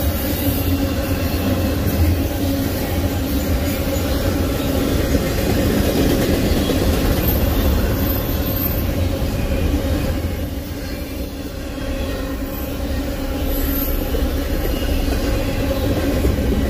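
Double-stack intermodal container cars of a freight train rolling past at steady speed, a continuous rumble of steel wheels on rail, with brief high wheel squeals about halfway through and again near the end.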